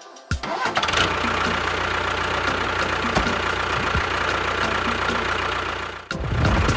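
An engine or motor running steadily, starting about half a second in. It dips briefly near the end and picks up again louder and deeper.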